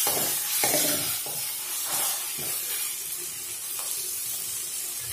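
Onions and ginger-garlic paste sizzling in hot oil in a metal kadai, with a metal spoon scraping and stirring the pan in several strokes through the first half, then the sizzle going on alone.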